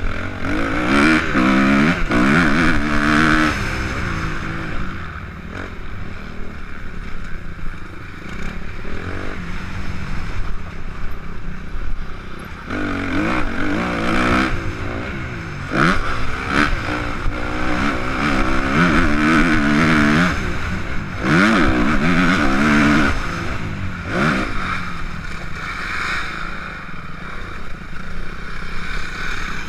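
Suzuki RM-Z 250 four-stroke single-cylinder motocross engine being ridden round a track, revving up hard and backing off again and again through several throttle bursts and gear changes, with quieter off-throttle stretches between them.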